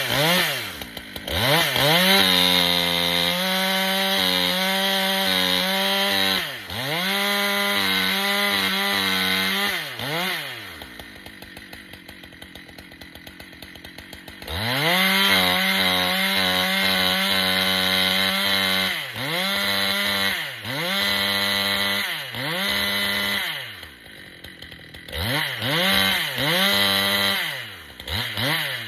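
Husqvarna chainsaw bucking red oak: it revs up to full throttle and holds a steady high pitch through a long cut, drops back to idle for a few seconds around the middle, then revs up for a second long cut followed by several short bursts of throttle near the end.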